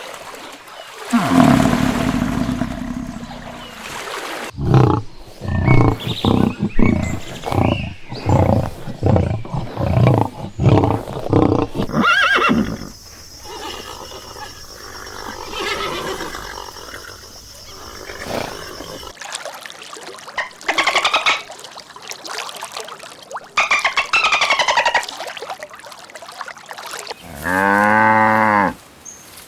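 A run of different animal calls. A long deep roar-like call comes first, then a series of about a dozen short, loud grunting calls at roughly two a second, then quieter, mixed calls. Near the end comes a single low, drawn-out cow moo.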